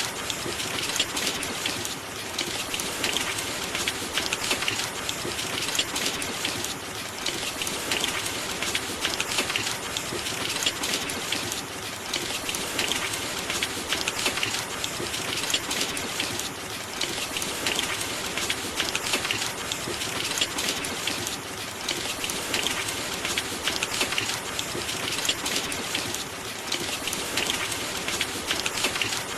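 Steady rain with a dense patter of drops, easing and swelling slightly every few seconds.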